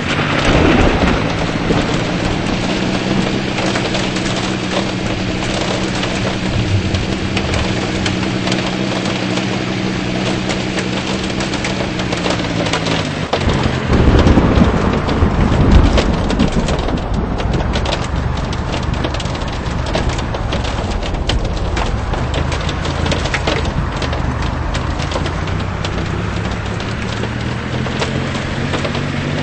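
Rain pattering on a vehicle while its engine runs; the engine note drops away about halfway through and climbs again near the end. A loud low rumble, likely thunder, comes just after the middle.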